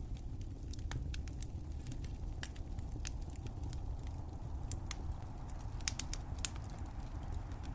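Fire crackling in a fireplace: irregular sharp pops and snaps over a low, steady rumble, with two louder pops about six seconds in.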